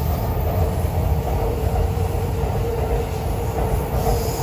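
Electric commuter train running over a steel-girder railway viaduct overhead: a steady deep rumble with a held mid-pitched whine.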